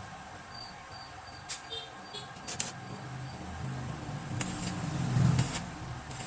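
Sharp metallic clinks of tools or metal parts at irregular intervals over a steady low hum. A vehicle engine's rumble swells and fades about four to five seconds in.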